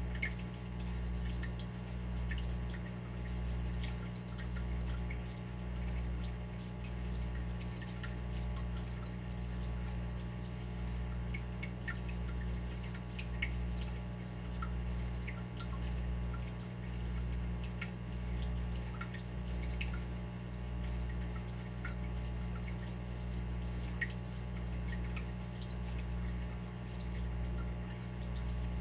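Water dripping, with small scattered drops falling irregularly, over a steady low hum that swells and fades about once a second.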